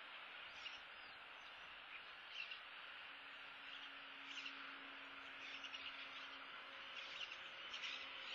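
Faint outdoor ambience at a bald eagle nest: a steady hiss with scattered short, high bird chirps every second or so.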